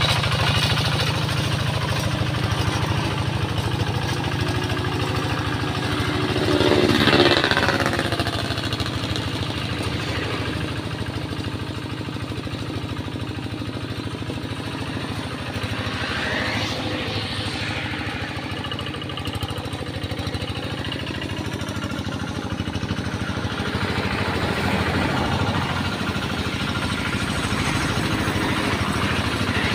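Tractor engine running steadily while ploughing a flooded rice paddy, swelling louder briefly about seven seconds in.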